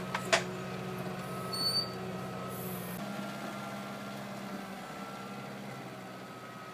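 Kubota 47 HP tractor's diesel engine running steadily while working a BH92 backhoe, with a couple of sharp knocks just after the start and a faint high steady tone over the engine hum.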